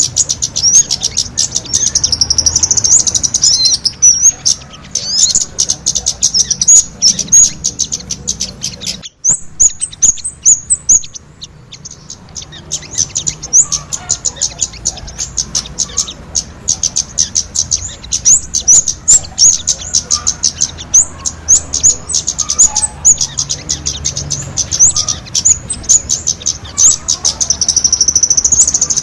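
Bird-lure recording of sogon and kemade calls: loud, high-pitched chirps in a rapid, nearly continuous chatter, with a brief break about nine seconds in.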